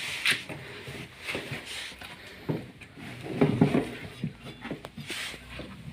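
Irregular light knocks and rattles from parts being handled during a washing-machine V-belt repair, with a short cluster of clatter a little past the middle.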